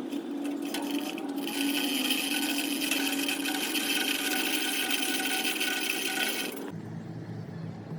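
A power tool running with a steady high whine, which cuts off suddenly near the end and gives way to a lower hum.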